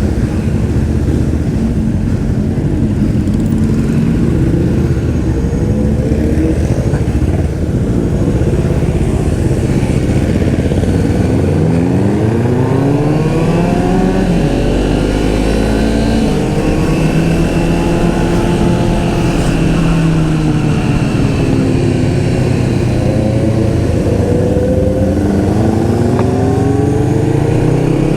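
Motorcycle engine speeding up and easing off again and again as it pulls through the gears, its pitch rising and falling several times, with wind rushing over the microphone.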